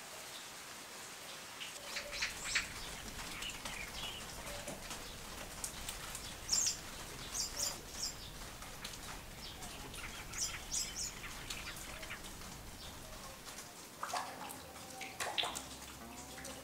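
Small birds chirping in short, high calls scattered through, over a faint steady outdoor background.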